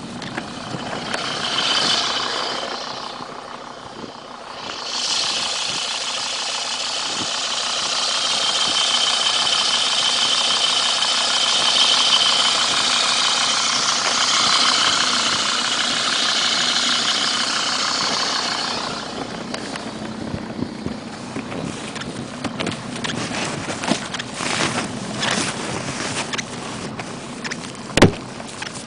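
An Audi quattro's engine running hard under load in deep snow, with a strong steady hiss, for about fourteen seconds before it drops away. Then come short crunches in snow and one sharp knock about a second before the end.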